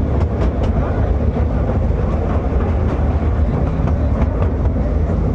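Small open-carriage ride train running along its narrow track: a steady low rumble with sharp clicks of the wheels over the rail joints, several close together in the first second and a few more later.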